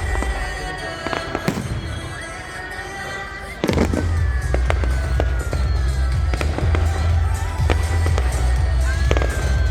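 Fireworks going off: a string of sharp bangs and crackles over loud music with a heavy bass. The bass fades away and then cuts back in abruptly about three and a half seconds in.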